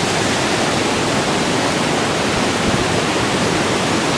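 Waterfall water rushing over rocks, a steady, even rush.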